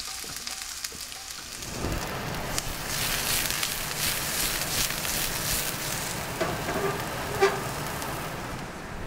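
Sliced onions sizzling in hot coconut oil in a wok over a gas flame, with the wok tossed back and forth. The sizzle grows louder about two seconds in. There is a short knock about seven and a half seconds in.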